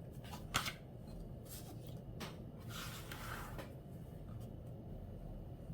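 Watercolor brush working paint with a handful of short, faint brushing strokes, the longest about three seconds in.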